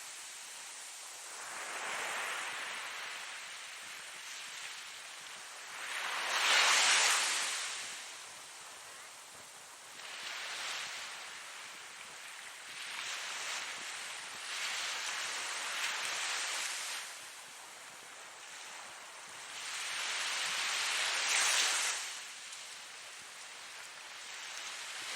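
Ocean surf: waves breaking and washing in, a hissing noise that swells and ebbs every few seconds, loudest about seven seconds in and again near twenty-one seconds.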